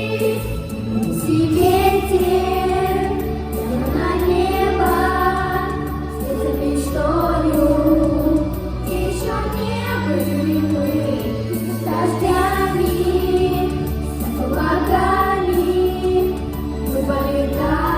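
A song: voices singing a melody in long held notes over a steady instrumental backing with sustained bass.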